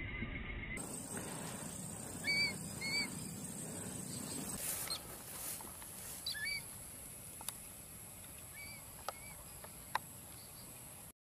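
A bird calling in short chirps that rise and fall, mostly in pairs, several times over open-field ambience. A steady high-pitched whine runs underneath, and a few sharp clicks come near the end.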